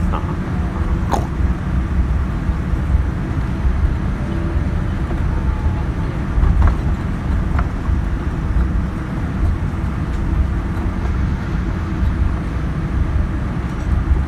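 Cabin noise of a Boeing 787-9 airliner taxiing: a steady low rumble from the idling engines and the wheels rolling over the taxiway, with a few faint clicks.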